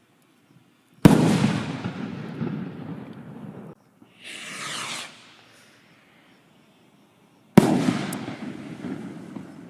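Firework rockets from a 'Wrecking Balls' rocket pack bursting overhead: a sharp bang about a second in with a long fading crackling tail, then a rocket's launch whoosh of about a second, then a second bang near the end with its own fading tail.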